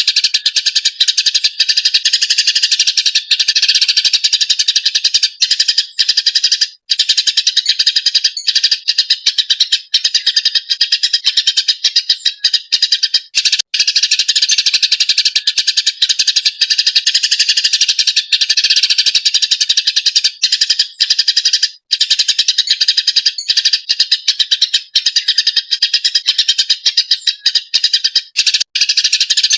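Eurasian tree sparrow chattering fast and almost without a break, a dense run of rapid high chirps with only a few brief gaps: the bird calling in a fired-up, agitated state.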